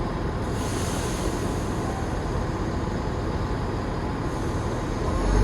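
Passenger train moving through the station: a steady rumble, with a brighter hiss over it for a few seconds in the middle.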